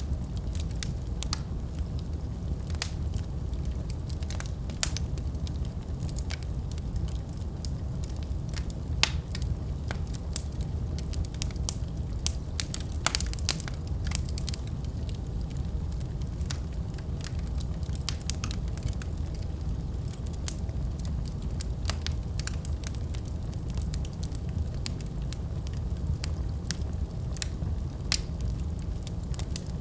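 Wood fire burning in a fireplace: a steady low rumble of the flames with frequent sharp crackles and pops, a run of louder ones about halfway through.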